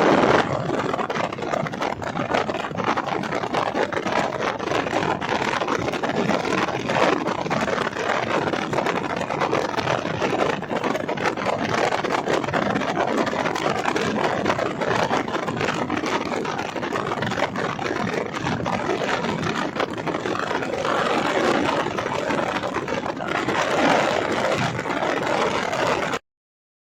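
Steady road and wind noise of a car driving, an even rush with no distinct engine note. It cuts off suddenly near the end.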